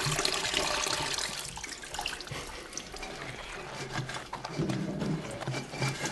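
Water splashing and sloshing with wet laundry in a washing machine tub, loudest in the first second or so and then dying down.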